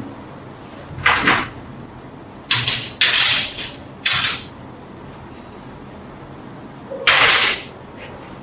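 Five short scraping or rubbing strokes of hand work on metal lamp parts, with irregular pauses between them.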